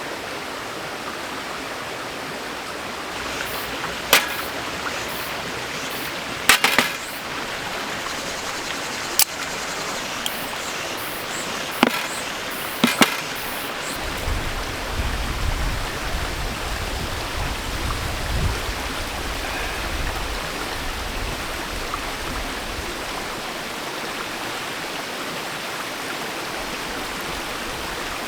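Steady rush of a mountain stream, with several sharp clicks and knocks between about 4 and 13 seconds in and a low rumble from about 14 to 20 seconds.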